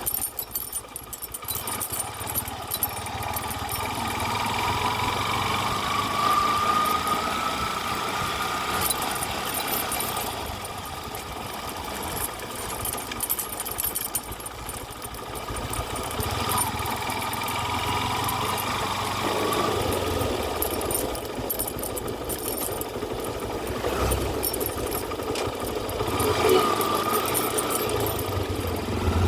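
An engine running continuously, its pitch rising slowly now and then as it picks up speed.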